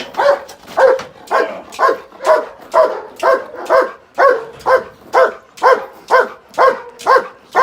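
Protection dog barking steadily and rhythmically, about two loud barks a second, while holding a cornered man at bay: the hold-and-bark of a trained guard dog.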